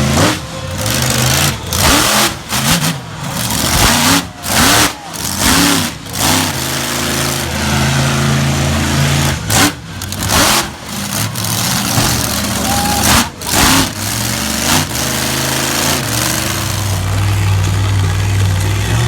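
Monster truck engine revving hard, the throttle opened and chopped many times in quick succession, each chop a brief sharp dip before the next rising surge. Near the end it holds a steadier, lower-pitched run.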